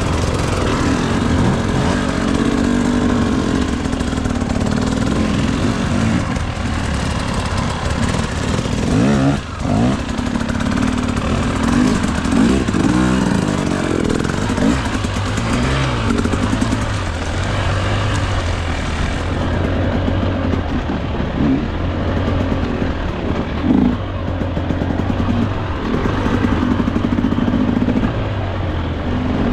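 Enduro dirt bike engine running and revving up and down as it is ridden, with the pitch rising and falling again and again and a brief drop about nine and a half seconds in.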